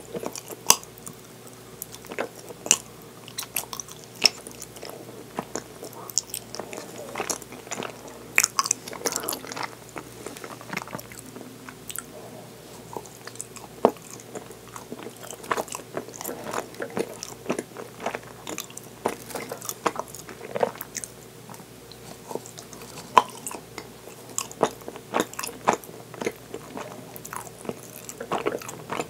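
Close-up chewing of soft, sticky rice-flour dango: wet, irregular mouth clicks and smacks, several a second.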